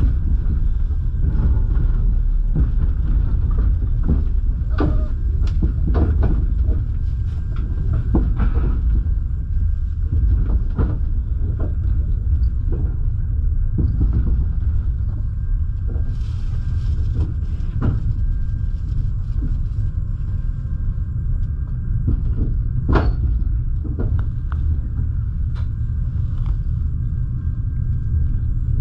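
Steady low rumble of a double-deck passenger train running along the track, heard from inside the carriage, with irregular knocks and clicks of the wheels over rail joints and points. A brief hiss a little past halfway.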